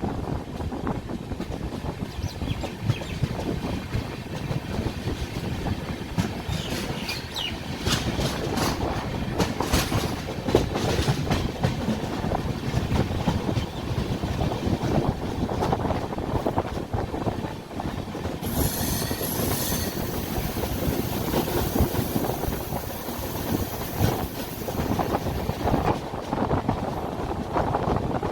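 Rajdhani Express train's wheels running on the rails, heard from on board: a steady rumble with clusters of rattling clicks over the rail joints. High wheel squeal comes in about a third of the way in and again for several seconds after the middle.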